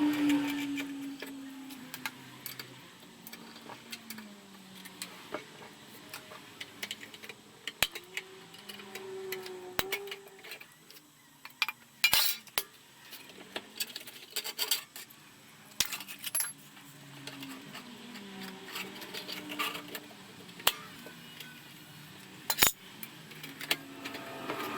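Scattered metallic clicks, clinks and knocks of hand tools, screws and bolts being worked loose from a Ryobi belt and disc sander's safety guard and fittings. A dozen or so sharper knocks stand out among them.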